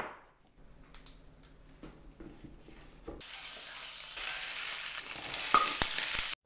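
A few faint knocks, then from about halfway in, shrimp, ginger and sugar snap peas sizzling loudly in hot oil in a frying pan while being stirred with a wooden spatula. The sizzle cuts off suddenly near the end.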